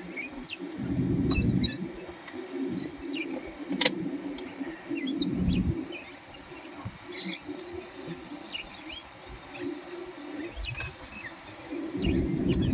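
Several wild birds chirping and trilling in short, scattered calls, over a low rumbling noise that swells and fades, with one sharp click a little under four seconds in.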